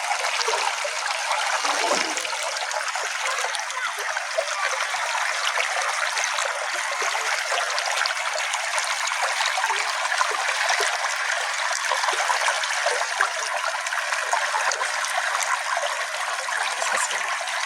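Small brook flowing: a steady, even trickling of water, with nothing deep or rumbling in it.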